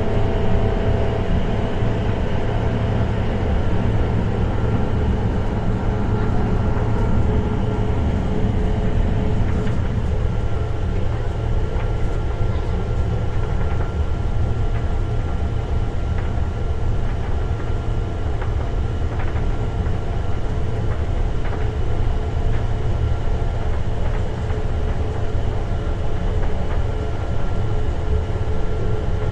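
German ICE high-speed train running at speed: a steady low rumble with a few faint steady tones above it. The middle of the rumble eases a little about ten seconds in.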